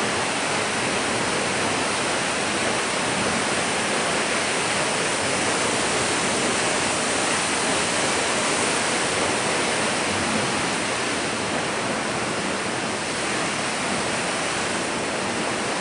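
A waterfall's water falling and rushing in a loud, steady, unbroken noise.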